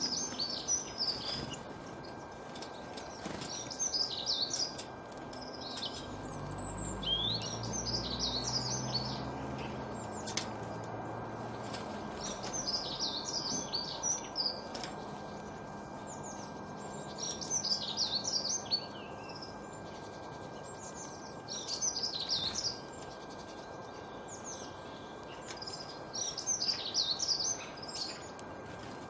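Small birds chirping in quick high bursts of song every couple of seconds over a steady background hiss. A low rumble comes and goes between about six and twelve seconds in.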